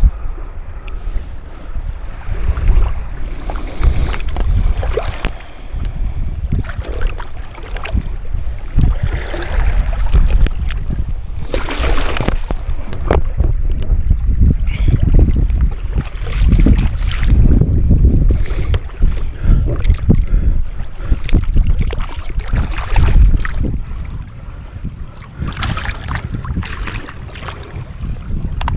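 Wind buffeting the microphone in uneven gusts, with water sounds and short knocks and clicks over it.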